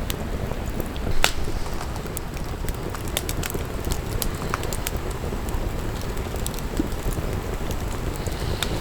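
Wood fire burning in a fire pit, crackling with scattered sharp pops over a steady low rush, one louder pop about a second in.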